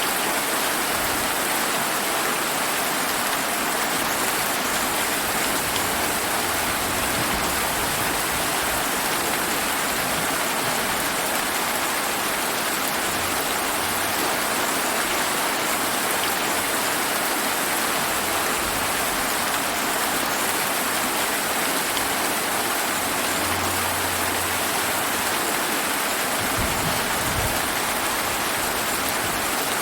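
Steady rain falling, an even hiss of drops on surfaces, with faint low rumbles now and then that may be distant thunder.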